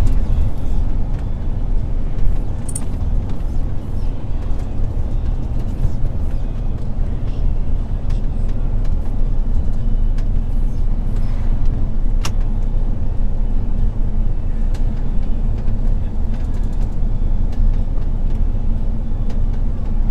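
MAN truck's diesel engine running as the truck drives, a steady low rumble with road noise and an occasional sharp click.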